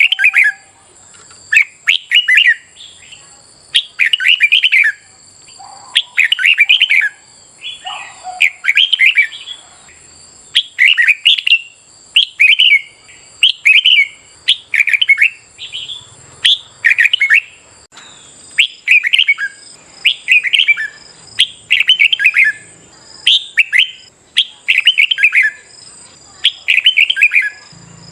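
Red-whiskered bulbul singing, a string of short, loud warbling phrases about one a second.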